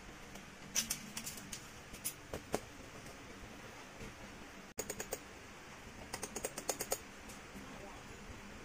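Light clicking and tapping in short clusters, a few single clicks and then quick runs of clicks, as the indoor air-conditioner unit's metal mounting plate is fixed to a prefab cabin wall.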